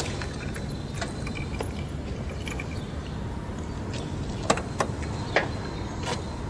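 A steady low rumble with a few scattered sharp clicks and knocks, the loudest of them about four and a half seconds in.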